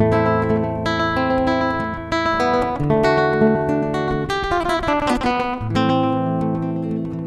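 Acoustic guitar playing held, strummed chords, with a quick descending run of notes about five seconds in.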